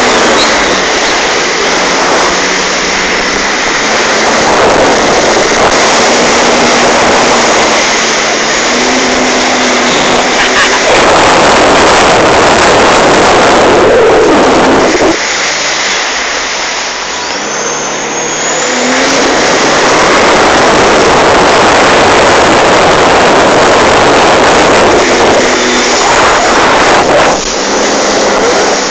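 Loud, steady rush of wind and water on the microphone while towed at speed behind a jet ski, with the jet ski's engine note shifting in pitch underneath. It eases for a few seconds a little past the middle.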